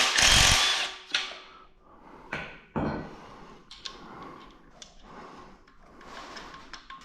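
A handheld power tool running in short loud bursts that stop about half a second in, followed by scattered metallic clicks and knocks of parts and tools being handled.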